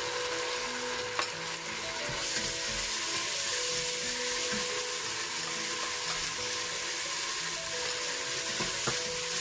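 Ginger-garlic paste and sliced onions sizzling in an aluminium pressure cooker while being stirred with a wooden spatula; the sizzle grows louder about two seconds in.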